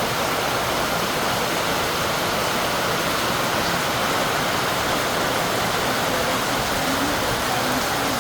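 Steady rain falling on a house roof, an even unbroken hiss.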